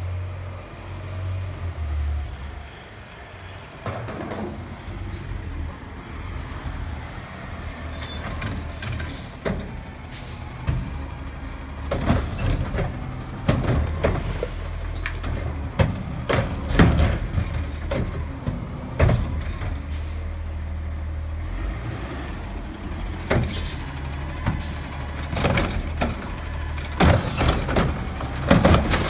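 Recycling truck's diesel engine running steadily, with a few brief high squeals early on. From about halfway through, come repeated loud clanks and crashes as recyclables are dumped into the truck.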